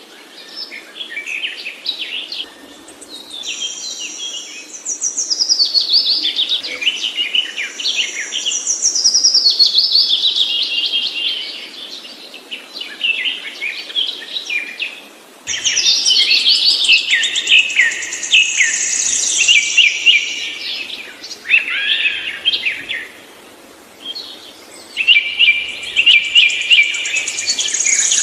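Songbird singing long, rapid, high-pitched warbling phrases full of trills that slide downward, with short pauses between phrases. About halfway through the recording cuts abruptly to another stretch of song.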